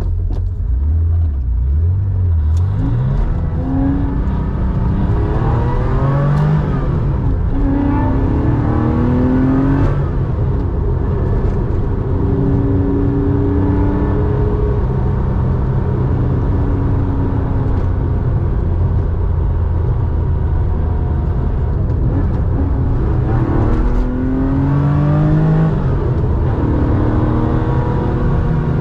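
1987 Porsche 911's air-cooled flat-six, enlarged to 3.4 litres and breathing through a Scart two-in-one-out muffler, driving on the road. The revs climb through the gears in the first several seconds, settle to a steadier cruise in the middle, then climb again near the end.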